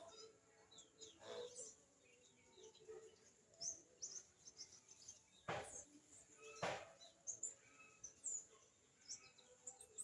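Small birds giving faint, scattered high chirps, with two sharp knocks about a second apart near the middle.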